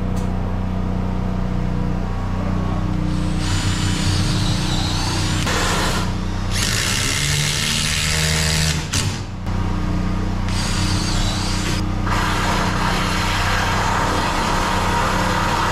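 Power drill running in three long spurts, the last one near the end, over a steady low hum.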